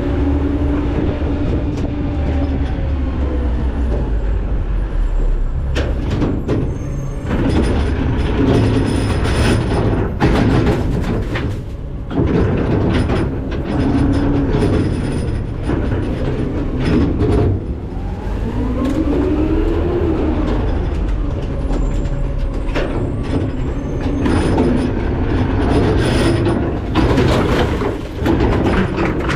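McNeilus ZR rear-loader garbage truck working its hopper: the engine and hydraulics run with a whine that rises and falls more than once as the packer cycles. Clanks and crunches of trash being dumped and compacted sound throughout.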